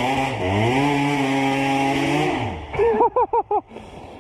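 Two-stroke enduro dirt bike engine pulling hard at high revs in second gear. The pitch dips briefly about half a second in, holds steady, then drops away when the throttle is let off about two and a half seconds in. Near the end comes a quick series of short warbling tones, several a second.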